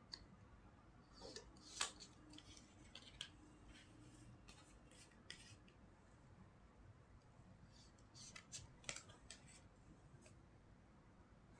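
Tarot cards shuffled by hand, faintly: scattered crisp card snaps and light rustles, with louder flurries about two seconds in and again near nine seconds.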